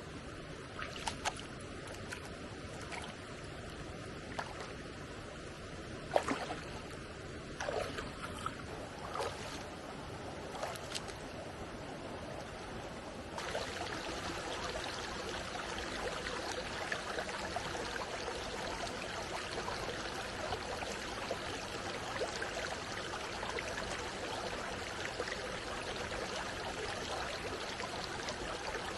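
Steady sound of flowing stream water, with a few sharp clicks and knocks in the first half. About halfway through, the water sound changes abruptly and becomes fuller and a little louder.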